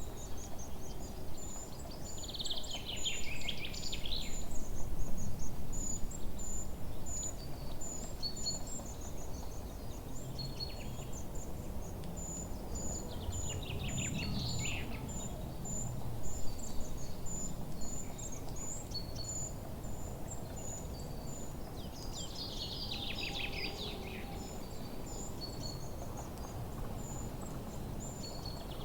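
Forest birdsong: a bird sings a rapid trilling phrase about every ten seconds, over a steady run of high, thin chirps and a low rumble of background noise.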